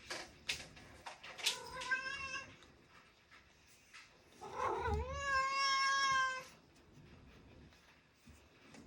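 A house cat meows twice: a shorter call about a second and a half in, then a longer, louder call of about two seconds near the middle. A few light clicks come just before the first call.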